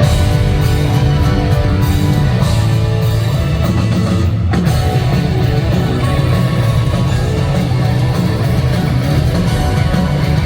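Live rock band playing at full volume, with distorted electric guitar and a drum kit. There is a short break in the guitar and cymbals about four seconds in.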